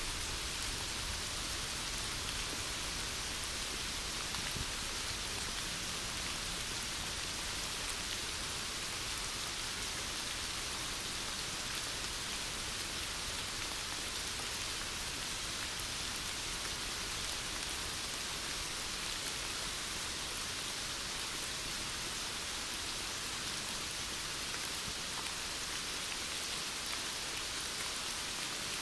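Heavy rain falling steadily, an even hiss of rain on surfaces with no breaks.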